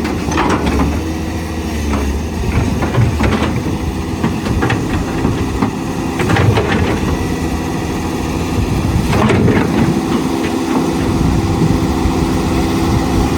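Cat 320C hydraulic excavator running, its diesel engine holding a steady hum, with sharp knocks about every three seconds.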